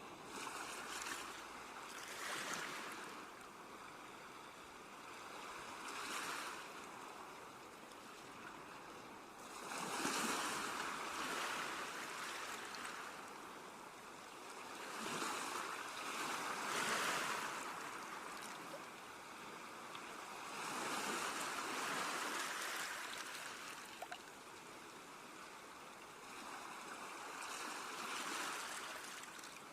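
Sea waves breaking in slow surges, one every few seconds, each building and fading over a second or two, with a steady surf hiss between them.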